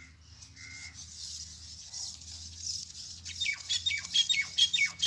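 A bird squawking in a quick series of short calls, each falling in pitch, about four a second, starting a little past halfway.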